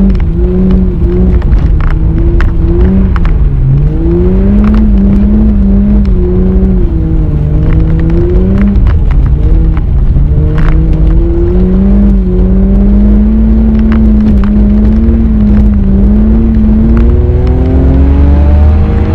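BMW E30 320i's straight-six engine heard from inside the cabin. Its pitch rises and falls unevenly as the throttle is worked on and off, with scattered sharp clicks and crackles. Near the end the revs climb steadily.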